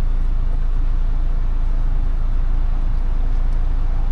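Car engine idling: a steady low rumble that stays even throughout.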